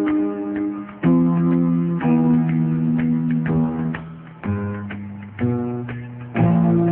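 Background music: plucked guitar picking out chords, a new chord about once a second.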